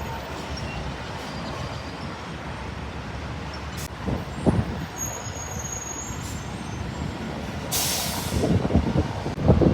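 Steady rumble of heavy road traffic with trucks, and a brief high hiss about eight seconds in.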